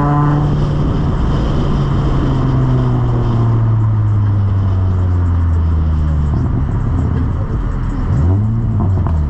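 Car engine running, its pitch falling slowly and steadily for about seven seconds as it slows, then a short rev up and back down near the end.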